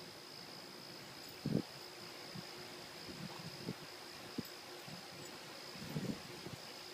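A steady high-pitched insect trill, with a few soft low thumps scattered through it. The loudest thump comes about one and a half seconds in and another near the end.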